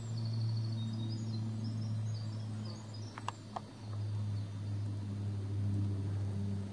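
Faint outdoor woodland ambience: a distant songbird gives short, high, repeated notes for the first couple of seconds over a steady low hum, with a few sharp clicks about three seconds in.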